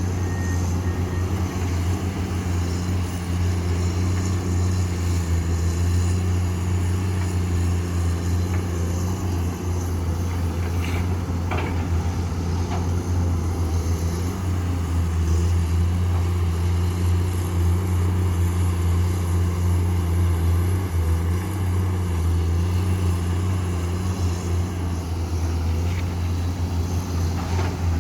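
Komatsu PC210 excavator's diesel engine running steadily at working speed, a deep even drone, with a couple of faint knocks about eleven seconds in.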